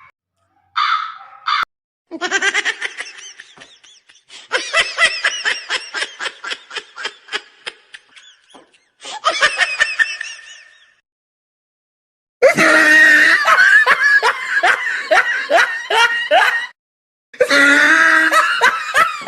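A string of separate laughter sound effects, each cut off by dead silence between them. In the middle clip a run of evenly spaced laughing pulses fades away, and the last two clips are the loudest.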